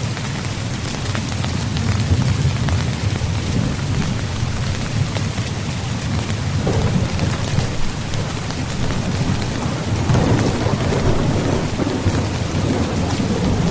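Steady rain pattering on a tent's fabric, with a continuous low rumble of thunder that swells about ten seconds in.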